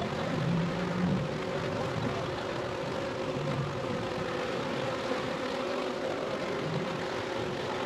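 Honeybee swarm buzzing, a steady drone of many wings with a held hum that wavers slightly in pitch.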